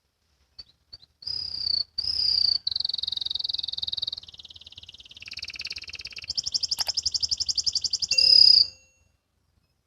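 Canary song: a few short high notes lead into a string of phrases, buzzing trills and then a fast run of rapidly repeated notes, the trilling 'ngriwik' style. A short, loud final phrase comes near the end.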